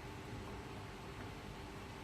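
Steady low background noise with a faint hum of a few steady tones; no distinct event.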